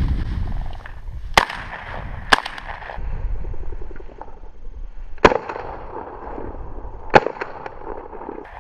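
Four loud shotgun shots at flushed quail: two about a second apart, then two more spaced about two seconds apart, each with a short echo, over wind noise.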